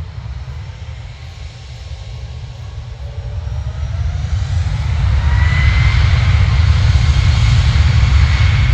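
Twin jet engines of a Ryanair Boeing 737 on its takeoff run: a whine that rises in pitch over a heavy low rumble, growing louder for the first five seconds or so and then holding steady.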